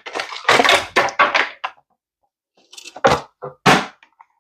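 Handling of a cardboard collector box: rubbing and scraping in the first second and a half, then three or four short knocks near the end.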